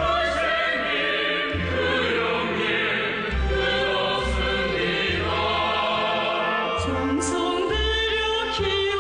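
A choir singing a song over instrumental accompaniment with a bass line that changes note about once a second.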